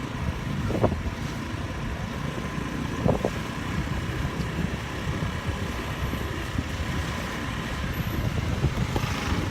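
Steady road traffic and motorbike engine noise heard while riding, with two short sharper sounds about one and three seconds in.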